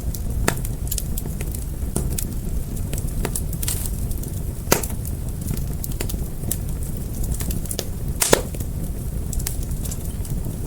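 Wood fire crackling, with a steady low rumble of flames under irregular sharp pops and snaps; two louder pops come about a third of the way in and near the end.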